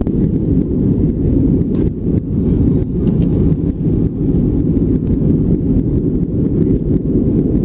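Airplane cabin noise: a steady, deep rumble of engines and airflow heard from inside the cabin.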